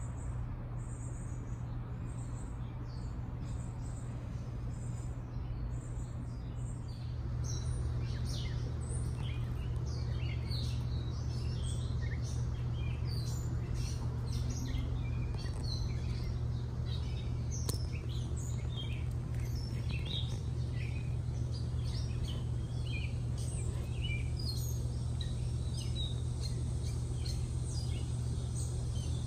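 Backyard birds chirping, many short high calls thickening after about seven seconds, over a steady low hum.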